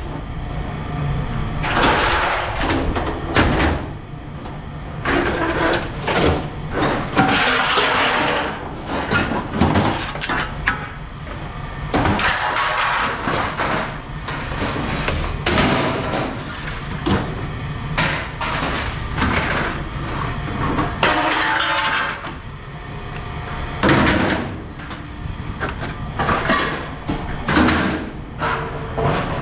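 Scrap metal pieces clanking and banging as they are handled and tossed, with a steady low machine rumble underneath.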